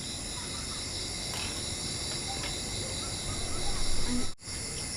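Steady chorus of crickets chirring at several high pitches, with a few faint clicks.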